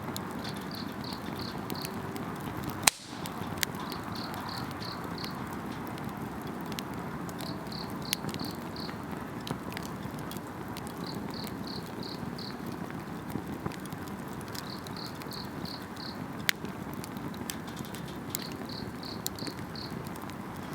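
Wood campfire crackling and hissing steadily, with scattered snaps and one sharp pop about three seconds in, while insects chirp in short trills of four or five pulses, repeating every few seconds.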